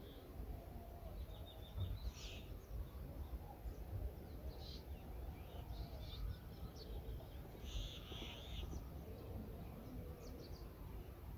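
Faint bird calls, a few short high chirps now and then, over a low steady rumble of open-air background noise.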